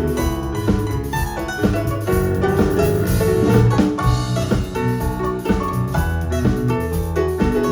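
A live band playing an instrumental passage, with guitar and bass over a drum kit.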